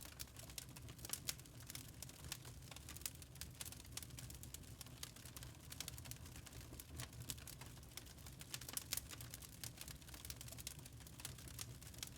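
Wood log fire crackling in a fireplace: many irregular sharp crackles and pops over a low steady rumble.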